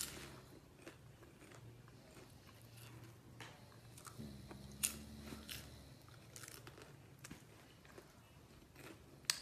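Popcorn being chewed: a few sharp, irregular crunches a second or so apart, the loudest about five seconds in and near the end, over a faint low hum.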